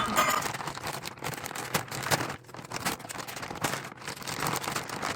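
Wild birdseed poured into the feeder's removable seed tray: a dense, crackling patter of many small grains landing.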